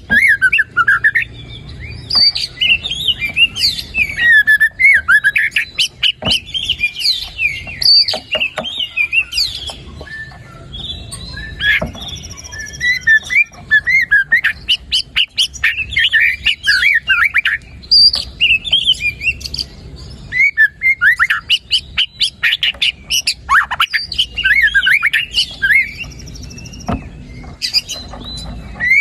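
White-rumped shama (murai batu) singing loudly: fast, varied phrases of whistles, slurred notes and chirps that slide up and down in pitch, delivered in bursts with short pauses between them.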